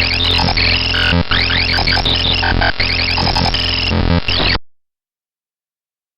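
Harsh synthesized electronic noise: jagged stepped tones and quick rising pitch sweeps over a steady low drone, cutting off suddenly about four and a half seconds in.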